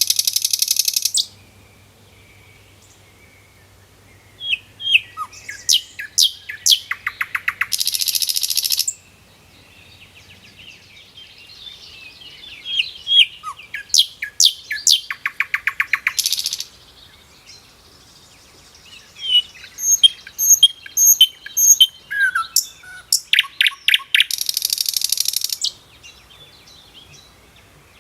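Birds chirping and trilling in fast series of notes, broken by loud, harsh buzzy bursts; the pattern recurs about every eight seconds.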